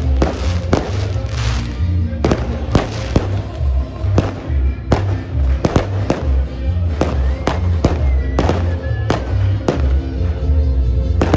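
Fireworks going off in quick, irregular bangs, two or three a second, over loud music with a heavy bass beat.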